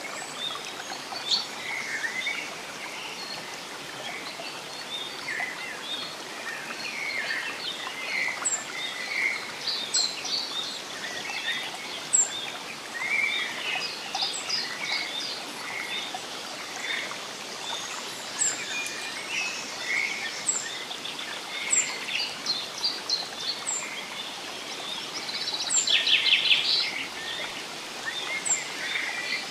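Several songbirds singing and calling over a steady background hiss, with a high thin note repeating every second or two. A louder, dense trill stands out near the end.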